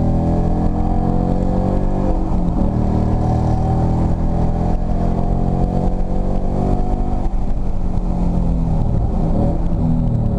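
2016 Ford Mustang engine at full throttle, heard from inside the cabin. The pitch climbs, drops at an upshift about two seconds in, and climbs again. After about seven seconds it falls away as the car comes off the throttle and brakes.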